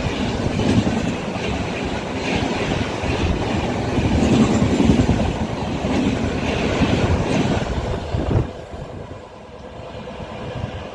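Indian Railways express train running, its wheels clattering over the rail joints with a loud rumble and rattle. About eight and a half seconds in the sound drops off suddenly to a fainter rumble.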